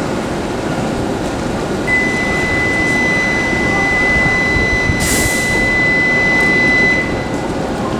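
Shinkansen platform noise: a steady rumble of train and station machinery, with a steady high electronic tone starting about two seconds in and cutting off about five seconds later. A short burst of air hiss comes about halfway through.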